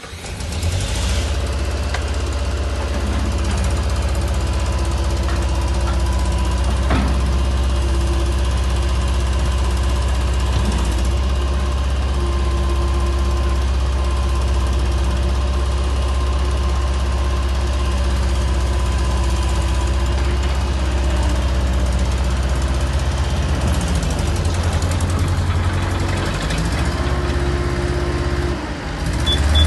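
Bobcat S130 skid steer's diesel engine running steadily with a deep, even hum. Near the end the note wavers and dips briefly before picking up again.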